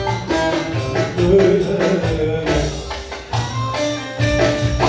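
Ankara folk dance music (oyun havası) played by a band: a stepping melody over a steady percussion beat.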